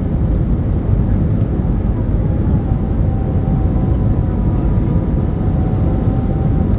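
Airbus A319 airliner engines heard inside the passenger cabin: a loud, steady, deep rumble, with a steady whine that comes in about two seconds in.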